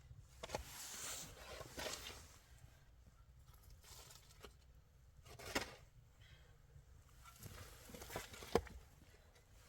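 Irregular rustling and scraping of materials being handled, with a sharp knock about five and a half seconds in and another near the end.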